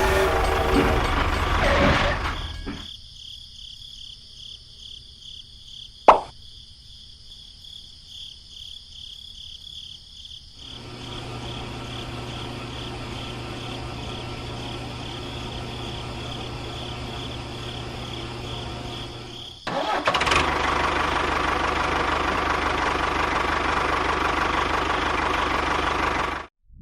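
Motor-driven machine running in several cut-together stretches. It starts loud and noisy, then turns quieter with a steady high whine and one sharp click about six seconds in. A steady low hum sets in at about ten seconds, and loud noisy running returns near twenty seconds before cutting off abruptly near the end.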